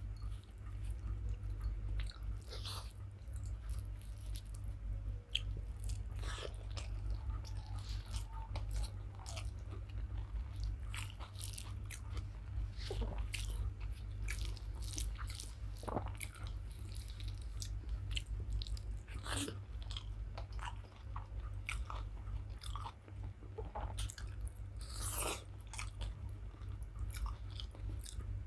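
Close-up eating sounds of a person chewing rice with lote macher rosa (Bombay duck curry): frequent short mouth clicks and chews throughout, over a steady low hum.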